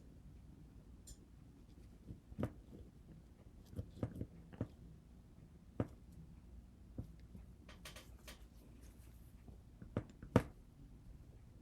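Scattered light clicks and knocks from handling things at a work table, about a dozen spread out with quiet gaps between them. A sharper knock comes about ten seconds in.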